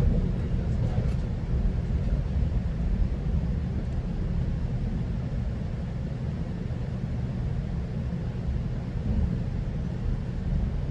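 Steady low rumble of a GO Transit commuter train running along the track, heard from inside a passenger coach.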